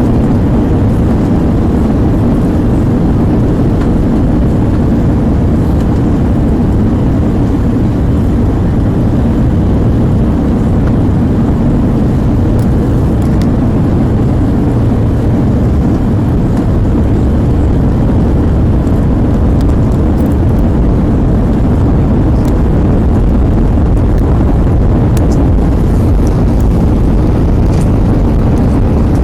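Steady cabin noise inside an Airbus A320 in flight: an unbroken low rumble of engines and airflow.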